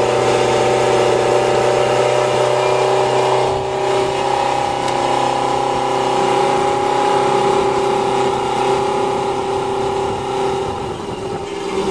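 Motorcycle engine of a dune buggy running at a steady speed, holding one pitch, soon after a cold start on starting fluid. It eases off a little near the end.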